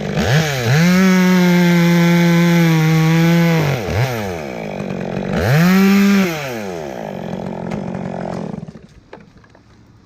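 Chainsaw revved to full throttle and held for about three seconds while cutting through a limb of a dead tree, then dropped back, revved again briefly, and idled before going quiet near the end.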